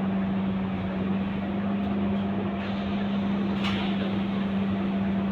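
Scania K230UB city bus heard from on board, its diesel engine running with a steady low drone over the general rumble of the bus. A brief hiss cuts in about three and a half seconds in.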